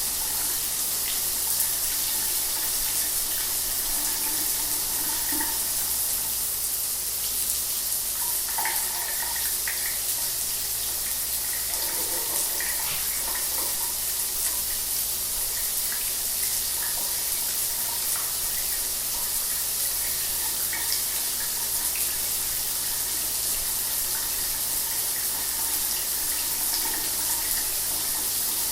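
Shower water running steadily, a constant hiss of spray with small spatters from drops striking a surface.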